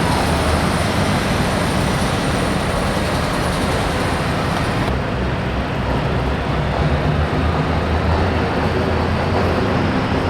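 Hot farm class diesel pulling tractor running hard at full throttle under load, a loud, steady, dense engine noise with a deep low drone. About halfway through, the highest hiss drops away while the engine keeps running.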